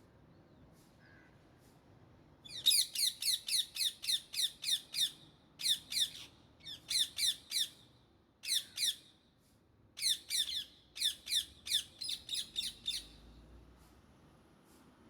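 Indian ringneck parakeet calling in rapid screeching bouts, about four or five shrill notes a second, each note sliding down in pitch. The calls start about two and a half seconds in and break off briefly several times.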